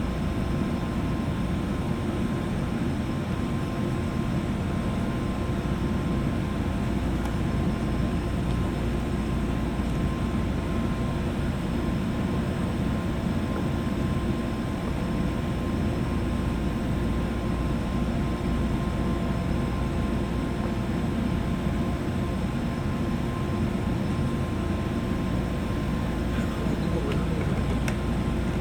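Interior running noise of a JR West 201 series electric train, heard above the motor car's armature chopper: a steady rumble of wheels on rail with a few faint steady tones. The level and pitch stay even, so the train is running at a steady speed.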